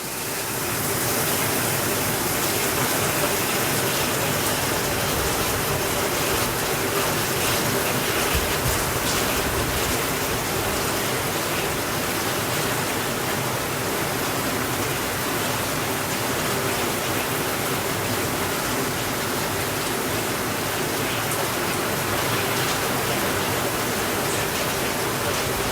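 Steady rainfall, a dense even hiss, with a few faint crackles of a wood fire now and then. It fades up over about the first second, then holds level.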